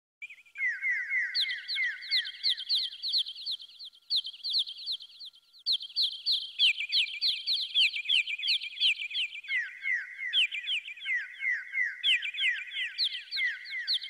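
A chorus of small birds chirping: many quick, repeated down-sliding chirps at several pitches, overlapping without a break.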